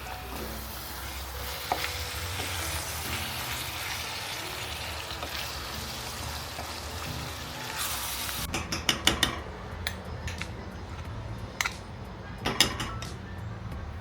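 Food sizzling in a frying pan while being stirred, with the scrape of a utensil; the sizzle stops abruptly about eight seconds in, after which there are scattered clicks and knocks of utensils against a pan.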